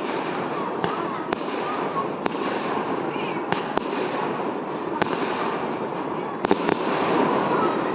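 Fireworks bursting, about seven sharp bangs at irregular intervals of roughly a second, two in quick succession late on, over continuous background noise.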